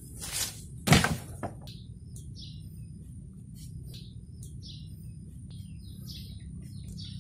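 A small bird chirping over and over, short falling chirps about once a second. About a second in there is a brief rustle, then a loud thump and a smaller knock.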